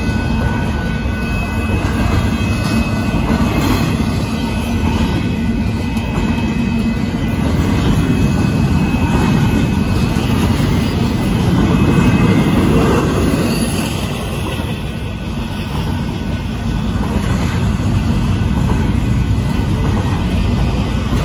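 Union Pacific intermodal freight train rolling past at a grade crossing: a loud, steady rumble of cars and wheels on the rails, swelling a little about halfway through.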